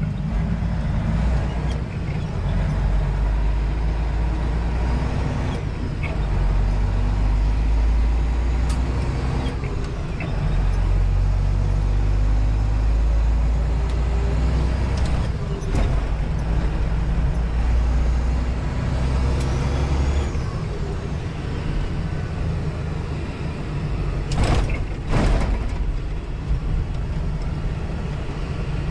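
Semi-truck diesel engine running under way, a deep steady drone that eases off about ten seconds in and again about twenty seconds in. Two sharp knocks come close together near the end.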